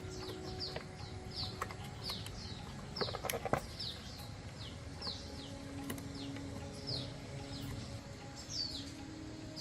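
A bird calling over and over with short, high, downward-sweeping chirps, roughly one or two a second. A few sharp clicks and knocks come in a quick cluster about three seconds in.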